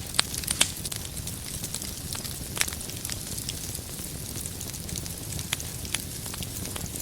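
Wood fire burning in a fireplace: a steady low rumble of flames with scattered sharp crackles and pops of burning firewood, a quick cluster of the loudest pops in the first second.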